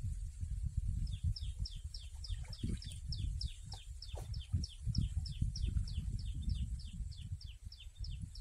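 A bird calling a fast, even series of short high falling notes, about four a second, starting about a second in. Underneath runs a louder, uneven low rumble.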